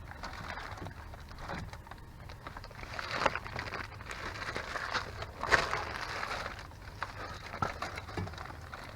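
Hands-on work noises: scraping and rustling with a few sharp knocks, the loudest about five and a half seconds in, over a steady low hum.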